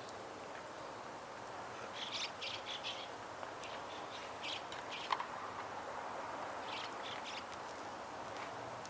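A small bird chirping in short runs of high notes, three times, over a steady outdoor background hiss, with one sharp click about five seconds in.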